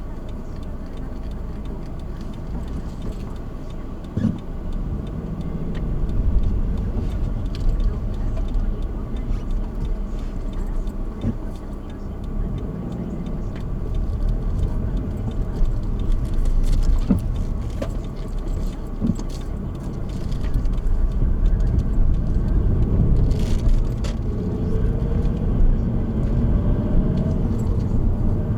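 Car driving on the road: a steady low rumble of road and engine noise, getting louder about two-thirds of the way through, with a few light knocks.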